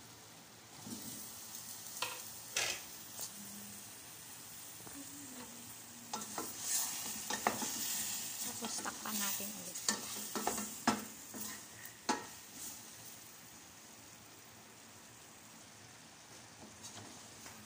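Chicken pieces and chayote chunks sizzling in a stainless steel pot while a wooden spatula stirs them, with scattered knocks of the spatula against the pot. The stirring and knocks are busiest in the middle, and only the quieter sizzle is left near the end.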